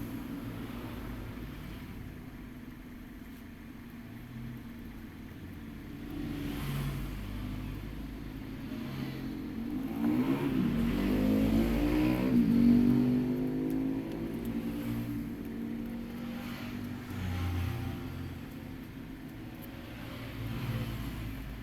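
A motor vehicle engine going by, with a low steady rumble and a pitched engine note that rises and falls, loudest about ten to thirteen seconds in.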